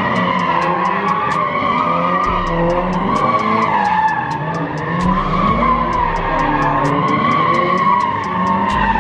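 Car tires squealing continuously as the car spins its wheels on the pavement, the squeal wavering up and down in pitch, with the engine revving beneath it.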